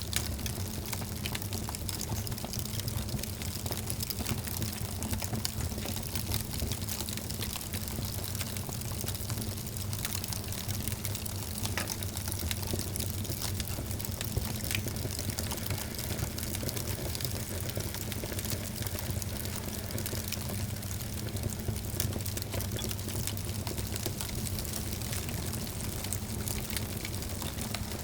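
Wood fire burning in a fireplace, crackling steadily with many small, irregular pops over a constant low rumble.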